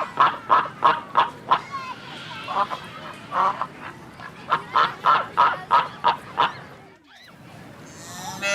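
Geese honking repeatedly, short calls about three a second in several bursts.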